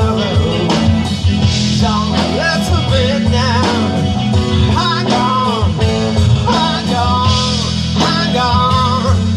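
Live rock band playing an instrumental passage, a guitar carrying the lead line with bending, wavering notes over the band.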